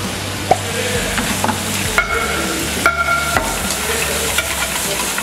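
Razor clams and chili stir-frying in a wok: steady sizzling, with the spatula clicking against the pan a few times.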